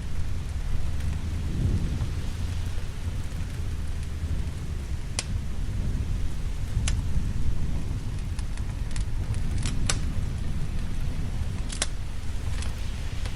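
Steady rain under a low, continuous rumble of thunder, with a fireplace fire crackling: about half a dozen sharp pops scattered through the second half.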